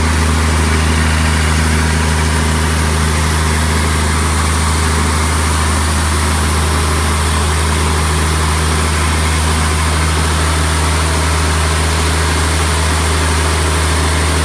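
Freshly rebuilt Caterpillar 3126 inline-six turbodiesel running steadily on an engine dynamometer, a constant low drone that holds the same speed throughout.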